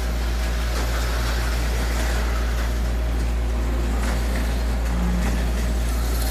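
HO-scale slot cars running on the layout's track: a steady low electric hum under a continuous whirring hiss from the small motors and wheels.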